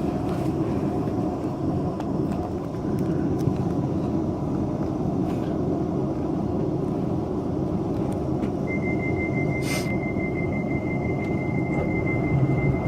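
Inside a London Overground Class 378 electric train: a steady low rumble of the train, then about two-thirds of the way through a rapid high-pitched beeping starts and carries on to the end, the door-closing warning, with a short hiss just after it begins.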